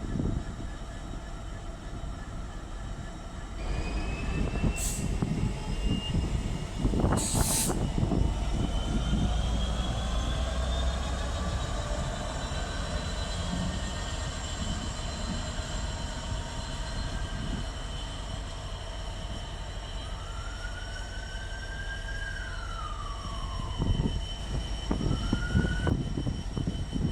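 Train running, with several high whines that glide slowly up and down in pitch. Two short sharp noises come about five and seven seconds in.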